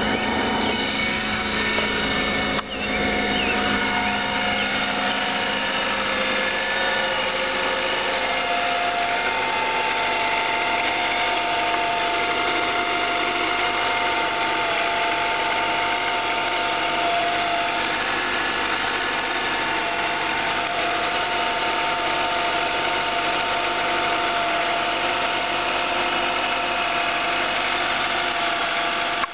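Honda Accord CB9 engine running steadily with a high-pitched whine: several steady tones held on top of the engine noise. The uploader has not found the cause of the whine.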